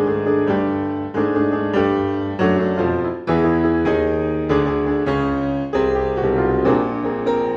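Background music: piano or electric piano playing a gentle melody with chords.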